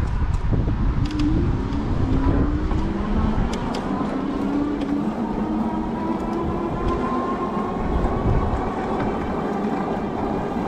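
Strong wind buffeting the microphone, with the whine of an e-bike's 750-watt Bafang rear hub motor slowly rising in pitch through the first half.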